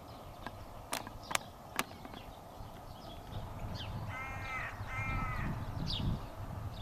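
A crow giving two harsh caws in quick succession, over a low outdoor rumble that builds in the second half. Three sharp clicks come in the first two seconds.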